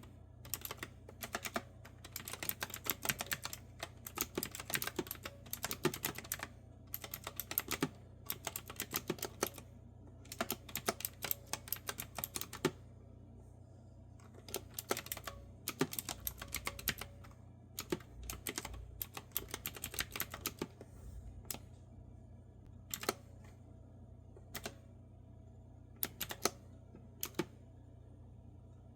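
Typing on a clicky retro-style keyboard with round keys: fast runs of keystrokes for about the first half, then slower, scattered single keystrokes with pauses between them.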